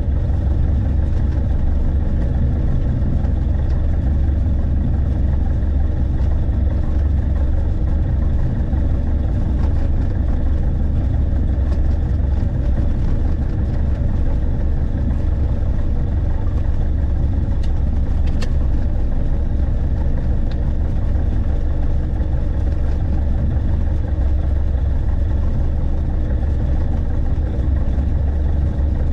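Light aircraft's engine and propeller droning steadily at a constant pitch and level, with a deep low hum.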